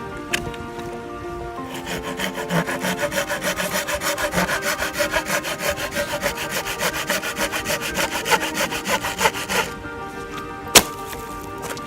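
Wood being sawn by hand in quick, even strokes for about eight seconds, over background music. A single sharp click comes near the end.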